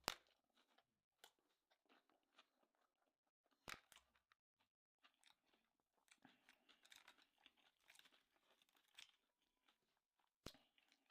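Faint close-miked chewing and crunching of a crispy sushi roll, a crackly texture that is busiest in the second half, with three sharp clicks: one right at the start, one about four seconds in and one near the end.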